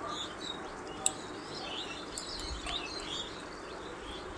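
Small birds chirping, with short scattered calls, over a steady low hiss; two sharp clicks come about one and two seconds in.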